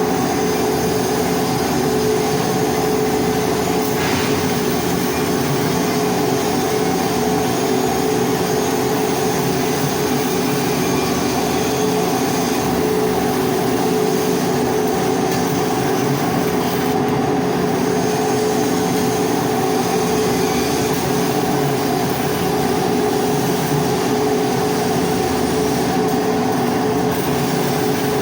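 Steady machine hum over a constant hiss during hardfacing arc welding on a pipe.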